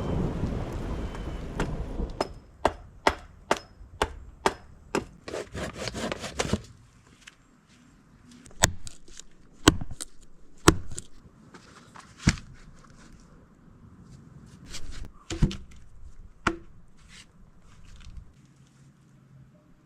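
Wood being struck during shelter building: a run of quick, even knocks about two a second, then a handful of louder single knocks spaced a second or more apart. A rain-and-thunder rumble fades out at the start.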